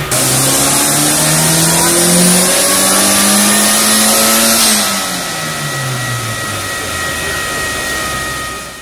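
Turbocharged Ford Capri 2.0 Pinto OHC four-cylinder in a full-throttle pull on a rolling-road dyno. The revs climb steadily for nearly five seconds, then the throttle closes and the engine drops to a lower, steady speed as the rollers run down. The sound fades out at the very end.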